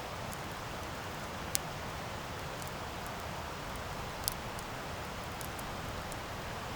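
Campfire burning: a steady hiss of flames with sharp pops from the burning wood, two loud ones about a second and a half in and about four seconds in, and fainter crackles between.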